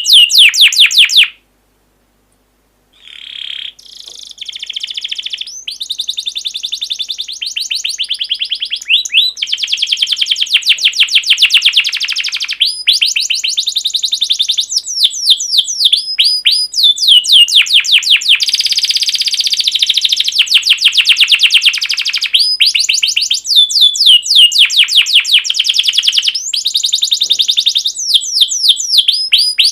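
Songbird song used as a masteran tutoring track: fast, continuous runs of repeated high, downward-sweeping chirps. It cuts off abruptly about a second and a half in, then comes back after a short gap and grows louder.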